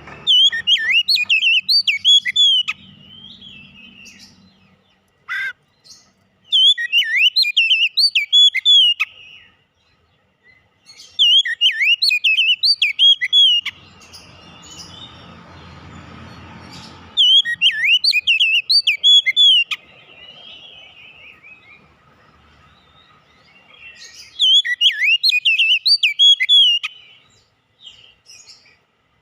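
Oriental magpie-robin (kacer) song: five loud bursts of rapid whistled notes that swoop up and down, each lasting about three seconds, with pauses of a few seconds between them.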